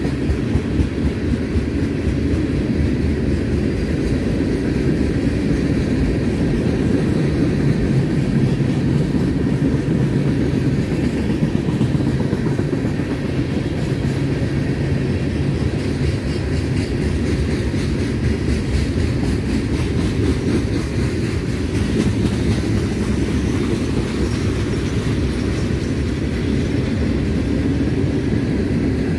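Train cars rolling past on the track, a steady low rumble that holds at the same level throughout.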